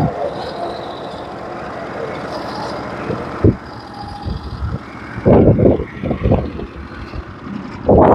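Norwood HD36v2 bandsaw mill's engine running steadily while the band saws through a log. About halfway through, the steady sound drops back and irregular loud low rumbles and knocks take over.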